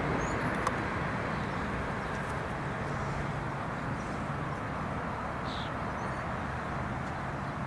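Steady rumbling noise of a train receding from the level crossing, easing slightly, with a faint low hum from about three seconds in.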